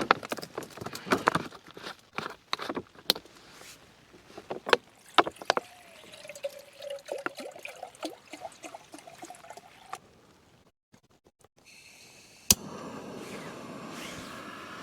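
Cookware clattering, then water poured into a pot with a slowly rising pitch. Near the end a single sharp click is followed by a steady hiss as a camping gas stove burner is lit for a brew.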